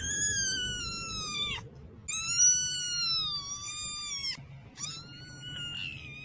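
A cat meowing three times in long, drawn-out, high-pitched meows, the last one fainter.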